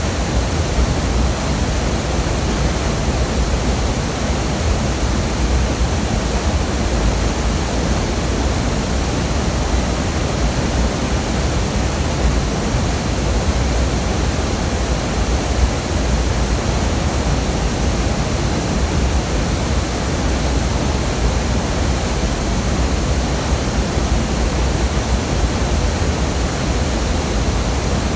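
Waterfall: loud, steady rush of falling water, unbroken throughout.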